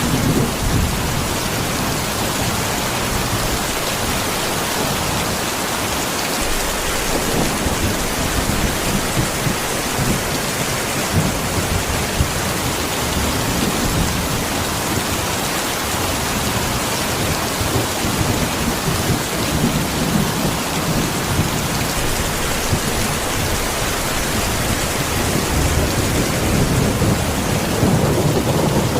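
Heavy rain falling steadily, a dense even hiss, with low rumbles swelling up now and then, the strongest near the end.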